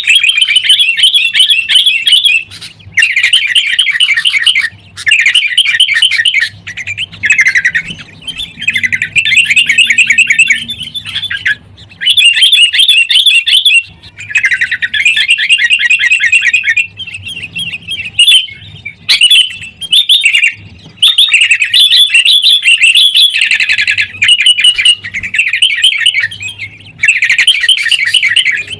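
Sooty-headed bulbuls calling in busy, rapid chattering bursts of a second or two, repeated with short gaps: the noisy, 'fighting' kutilang calls used to spur a caged bulbul into song.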